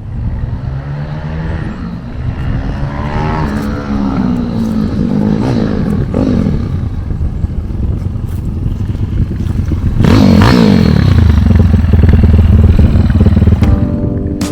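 A 212cc single-cylinder four-stroke engine in a Honda CT70 Trail 70 minibike being ridden hard. Its pitch rises and falls as it accelerates and changes gear, and it is loudest from about ten seconds in. Music comes in near the end.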